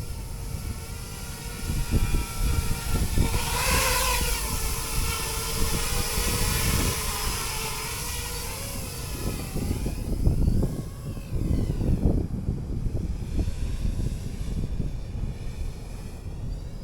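Battery-powered RC helicopter flying, its rotor and motor whine rising and falling in pitch as it moves, with a loud rushing pass about four seconds in. Wind buffets the microphone.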